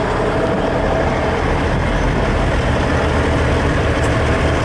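Heavy diesel truck engine idling steadily, a continuous low rumble.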